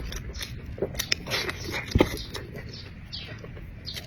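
A person chewing and smacking on food, with irregular wet mouth clicks and one sharper click about two seconds in.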